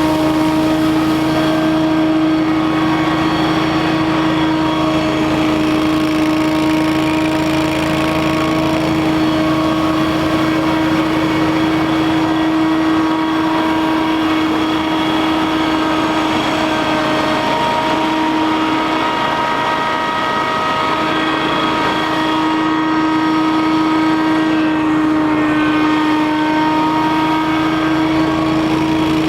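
Scag Windstorm stand-on leaf blower running steadily at full output: a loud, continuous engine-and-fan drone with a strong steady whining tone.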